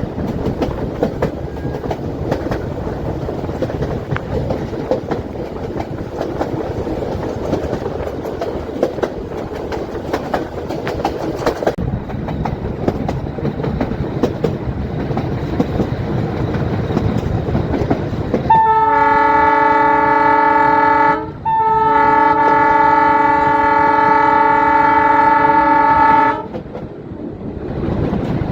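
Metre-gauge train hauled by a YDM-4 diesel locomotive: steady rumble and clatter of the coaches running on the rails, then about two-thirds of the way in the locomotive's horn sounds twice, a blast of about three seconds and a longer one of about five, several tones at once. The horn is the loudest sound.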